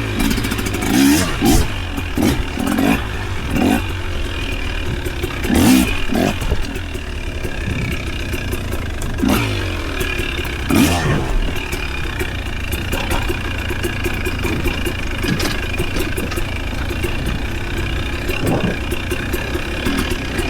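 Off-road vehicle engine running under constant load and revving up and down repeatedly over trail terrain, with knocks and clatter throughout.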